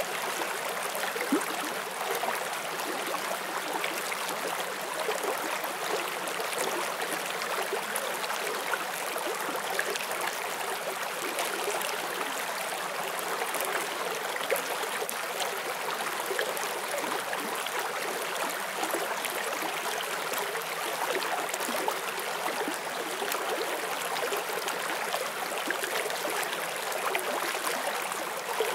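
Forest stream flowing steadily over rocks, a continuous rush of water with many small splashes and gurgles.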